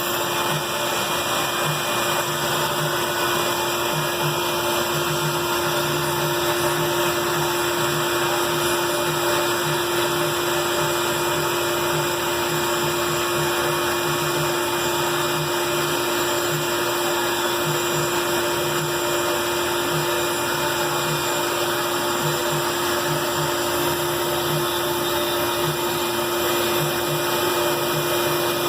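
Band saw running steadily, its motor and blade whirring with a constant hum.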